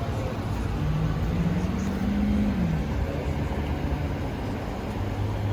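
A motor vehicle's engine running: a steady low hum with a tone that rises over about two seconds, then drops away.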